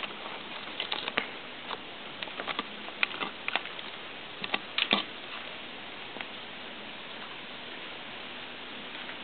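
Steady hiss of rain in a downpour, with irregular sharp taps through the first five seconds or so.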